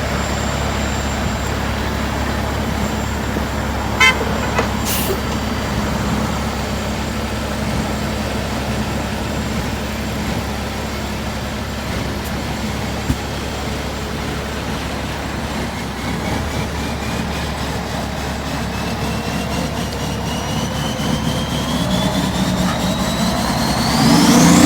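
Truck engine running steadily, with a couple of brief sharp sounds about four and five seconds in. A high whistle rises steadily in pitch over the last eight seconds or so.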